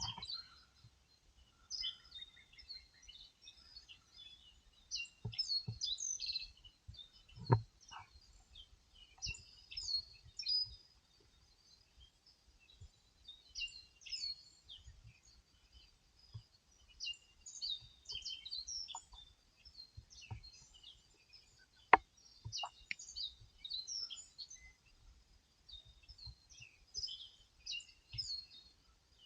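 Several wild birds singing and chirping with short, high calls and trills throughout. A few sharp clicks break in now and then, the loudest about 22 seconds in.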